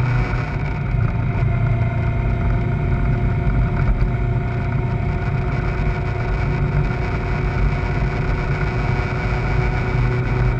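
Kawasaki ZZR600's inline-four engine running at a steady, unchanging pitch.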